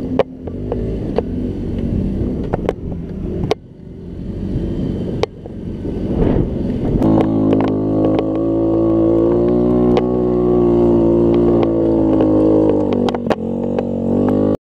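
Scooter engine running unevenly with sharp clicks, then from about seven seconds in holding a steady high-revving note. The note dips just before the sound cuts off suddenly.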